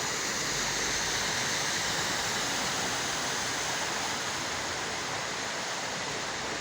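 Heavy rain, with rainwater running fast along a street like a flowing torrent: a steady rushing hiss that eases slightly near the end.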